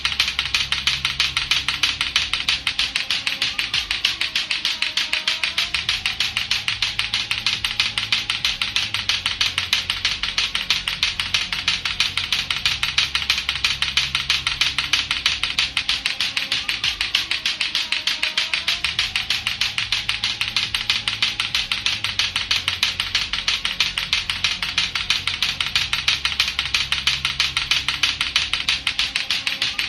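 Latto-latto clacker toy: two hard balls on a string knocking together in a rapid, steady clacking that never pauses, over a looping backing track of music.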